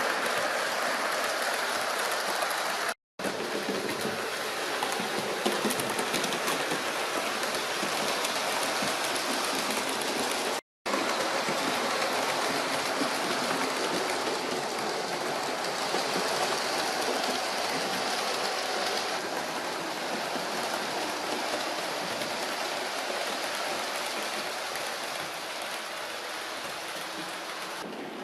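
OO gauge model train running along the track: a steady rushing of wheels on rail and motor whir. It cuts out briefly twice.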